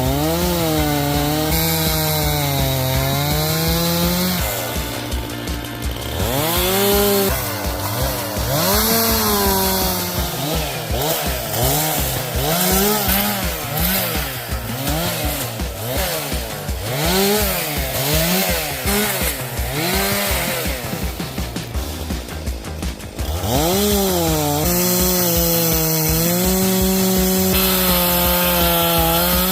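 Chainsaw running, its engine revving up and dropping back again and again through the middle, then held at steady high revs for the last five seconds or so.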